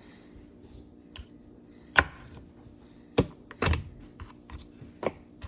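Kitchen knife chopping celery on a cutting board: about five sharp, irregularly spaced knocks, the loudest about two seconds in.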